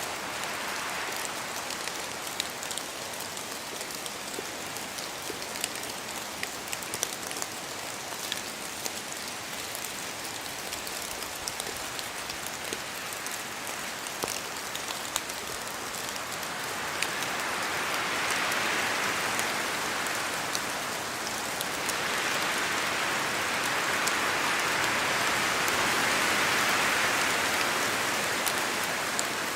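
Steady rain falling in a forest, with many sharp single drops pattering down from the trees. Wind gusts swell the sound twice in the second half, the second swell longer and louder.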